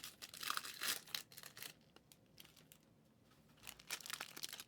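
Plastic trading-card pack wrappers crinkling and tearing as packs are ripped open, in irregular rustling spurts through the first second and a half and again near the end.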